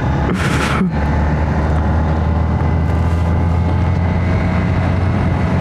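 An old motorcycle's engine running steadily as the bike rides along, picked up by a helmet or action camera. A short hiss of wind noise sweeps over it about half a second in.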